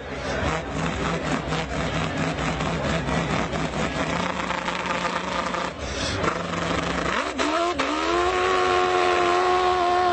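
A person's mouth imitating a car engine: a lumpy, pulsing idle, then at about seven and a half seconds the revs rise and are held at a steady high pitch.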